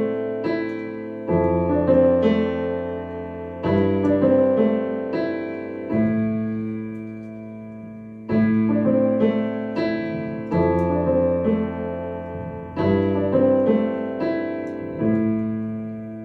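Piano introduction to a slow song: chords struck about every two seconds, each left to ring and fade, with lighter notes between.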